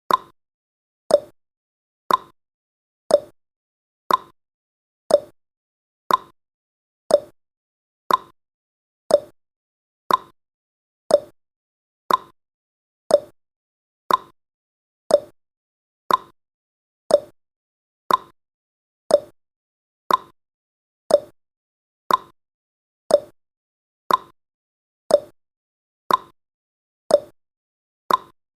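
Clock-style ticking sound effect of a countdown timer: one sharp tick every second, each dying away quickly, keeping an even beat.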